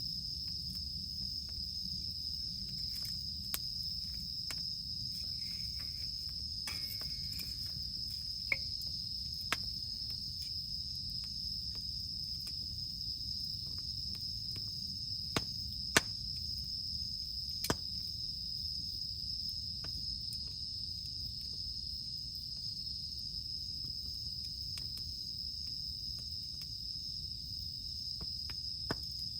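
A wood campfire crackling, with a handful of sharp pops, the loudest about halfway through, over a steady high-pitched drone of cicadas and a low rumble.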